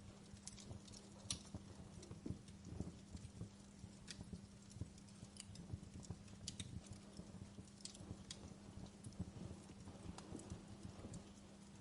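Wood fire burning in a fireplace, with irregular sharp crackles and pops of burning logs over a faint low hum.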